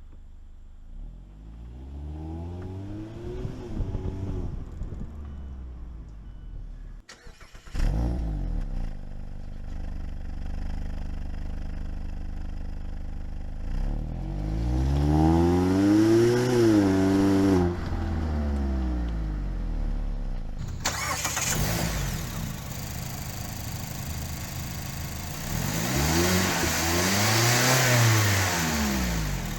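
2016 Mazda MX-5 Miata's four-cylinder engine through its stock exhaust, idling and revved three times, each rev rising quickly and falling back to idle.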